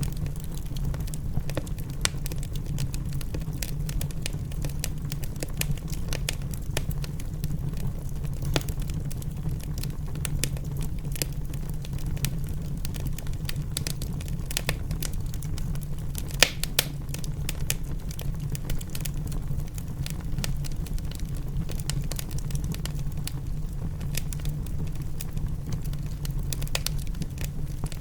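Wood fire crackling in a fireplace: irregular sharp pops and snaps, one louder cluster a little past halfway, over a steady low rumble.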